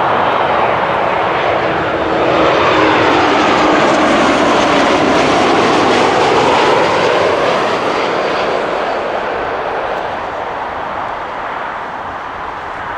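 Jet airliner passing close by on landing approach, its engines making a loud steady roar with a sweeping, phasing pitch as it goes over. The roar peaks in the middle and fades over the last few seconds.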